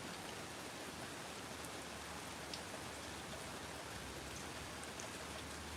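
Steady rain falling, an even hiss with scattered drops tapping on surfaces.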